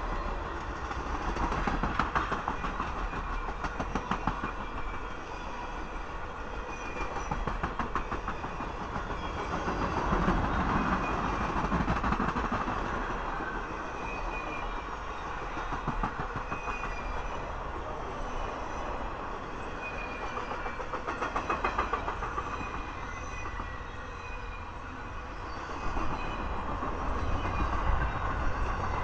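Passenger cars, then flatcars carrying trailers, rolling past at speed. The wheels clack in quick bunches as each set of trucks goes by, and the rumble swells and fades every few seconds.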